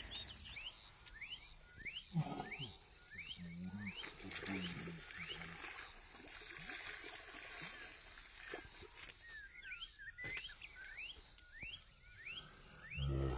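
A bird calling over and over with short rising chirps, about one a second. Splashing in the middle as a hooked snakehead thrashes at the surface while it is hauled in.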